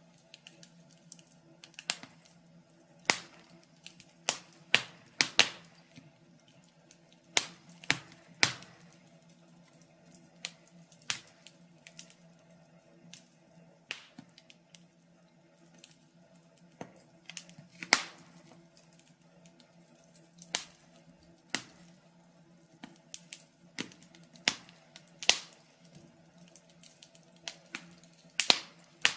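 Wood fire crackling: irregular sharp pops and snaps at uneven intervals, a few much louder than the rest, over a faint low hum.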